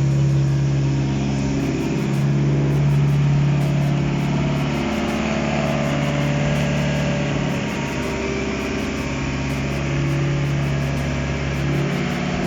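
Mitsubishi 4B12 2.4-litre inline-four petrol engine running steadily on an engine test stand, its speed drifting slightly now and then.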